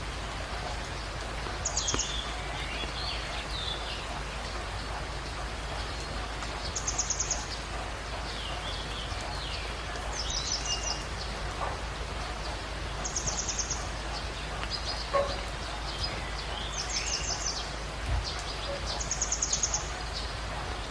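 Birds in a morning chorus: one bird repeats a short, very high, rapid trill six times, every three to five seconds, while others give scattered lower chirps and whistles. Under them runs a steady even hiss of background ambience.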